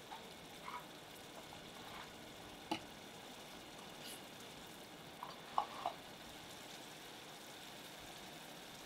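Onion, tomato and ground-spice curry base frying in oil in a saucepan: a faint steady sizzle with a few small pops, several close together about five and a half seconds in.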